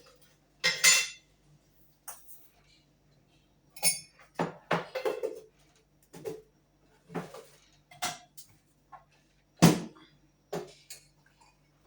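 Kitchenware being handled: a series of about a dozen irregular clinks and knocks, with the loudest about a second in and again near the end.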